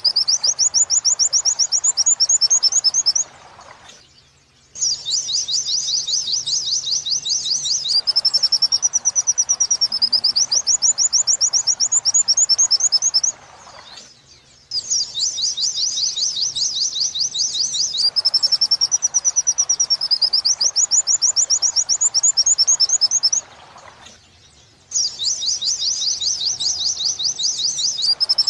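Pleci (white-eye) song played as a training recording in the 'wit-wit sambung kuntilanak' style: fast runs of repeated high 'wit' notes alternating with a wavering whistle, in long phrases broken by three short pauses.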